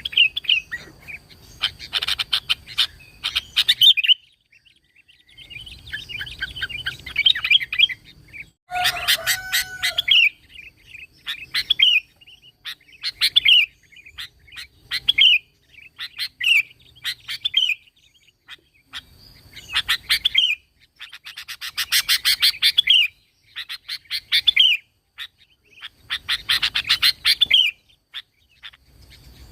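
Sooty-headed bulbul (kutilang) singing: short phrases of quick chirping notes, repeated about eight times with brief pauses between them.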